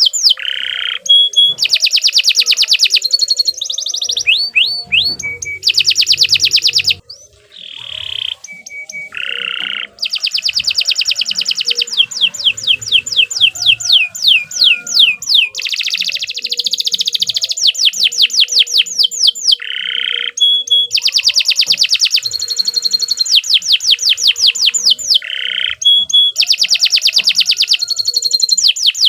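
Domestic canary singing a long, nonstop song: fast trills of short repeated whistled notes, rolls and sweeping phrases following one after another, with a brief quieter break about seven seconds in.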